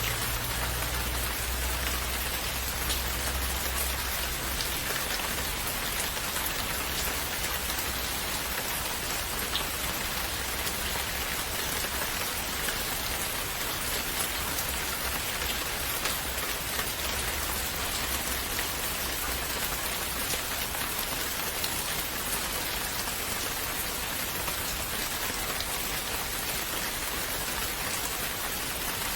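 Steady rain falling on a surface, an even hiss with scattered faint drop ticks and a soft low rumble in the first few seconds.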